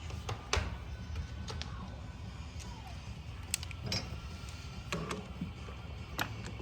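Scattered sharp metallic clicks and clinks of hand tools and parts being handled while a motorcycle is assembled, about half a dozen spread over the few seconds, over a steady low background hum.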